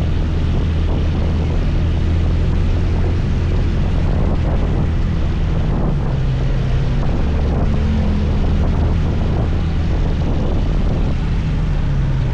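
Motor scooter engine running steadily while riding, its note shifting a little now and then, with wind rushing over the microphone.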